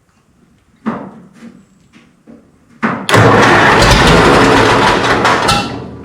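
Minneapolis Moline tractor engine being started after its fuel line was cleared: a few knocks, then about three seconds in it turns over and fires, running loud for roughly two and a half seconds before dropping away near the end.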